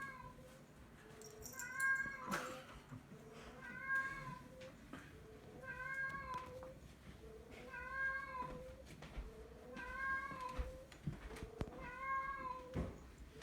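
A recorded cat meow played on a loop from an Amazon Echo smart speaker, the identical meow repeating about every two seconds.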